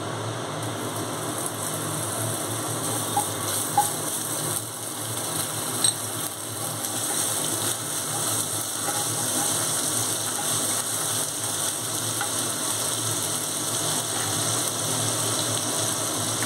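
Ginger paste sizzling as it fries in hot oil in a non-stick kadai, stirred with a wooden spatula. A few sharp clicks stand out in the first six seconds.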